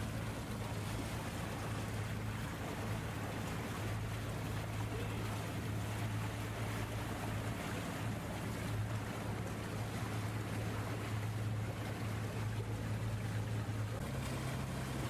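A boat's engine running steadily under way: a low, even drone with a hiss of water around the hull. About fourteen seconds in, the engine note steps up slightly in pitch.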